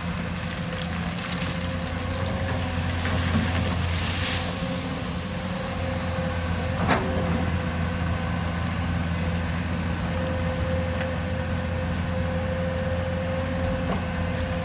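Hyundai excavator's diesel engine running steadily, with a brief hiss about four seconds in and a single sharp knock about seven seconds in.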